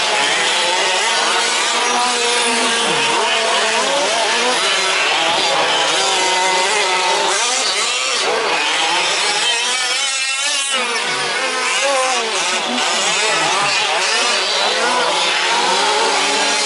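Several 1/5-scale RC racing trucks' small two-stroke petrol engines running together, their pitches rising and falling as they rev and lift off. One passes close about ten seconds in.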